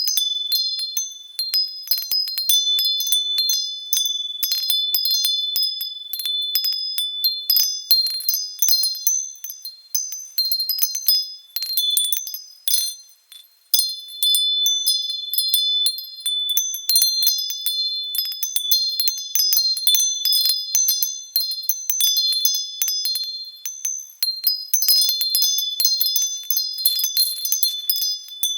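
Wind chime ringing in the wind: many quick, irregular strikes of several high, overlapping tones that ring on, with a brief lull about halfway through.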